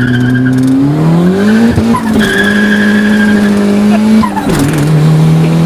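Turbocharged Honda Civic D16Y8 four-cylinder running hard under load with its tires squealing. The engine pitch climbs about a second in, then drops sharply twice and settles at a steady high note each time.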